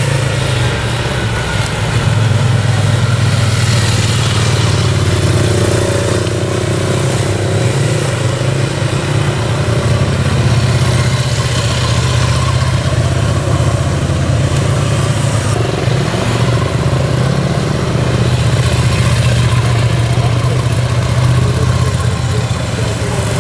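Motorcycle engine running steadily at low speed, a continuous low drone.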